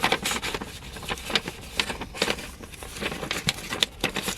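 Irregular crinkling and crackling of paper, a greeting card and its envelope being handled.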